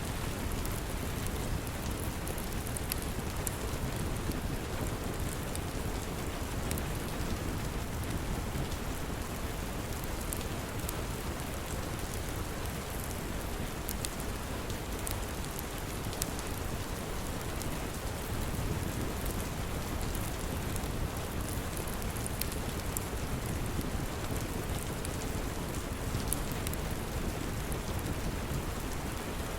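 Steady heavy rain with a low rumble, mixed with scattered sharp crackles from a fireplace.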